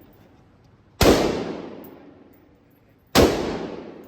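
AR-15 rifle in 5.56 fired twice, about two seconds apart; each sharp crack trails off in a long echo inside the indoor range.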